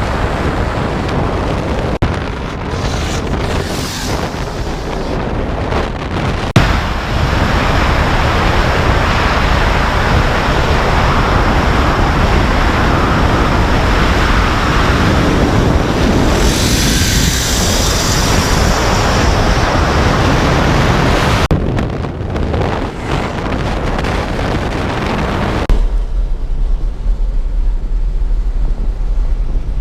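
Turbocharged Ford Coyote 5.0 V8 (Precision 76 turbo) running hard under acceleration, mixed with heavy wind rush on the microphone. About 26 seconds in the sound changes abruptly to a steadier, lower drone.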